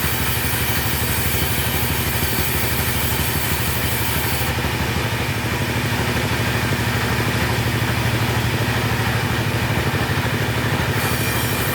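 Chainsaw engine running steadily at an even pitch. The high hiss drops away for several seconds in the middle, then returns.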